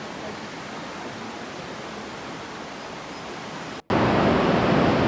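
Steady rushing of the river water in a narrow gorge. Just under four seconds in it cuts out for an instant and comes back much louder.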